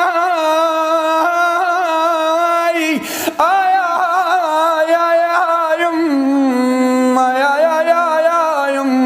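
A man's voice chanting a long, ornamented lament line without words, its pitch wavering and turning, with a quick breath about three seconds in. It settles onto a lower held note about six seconds in.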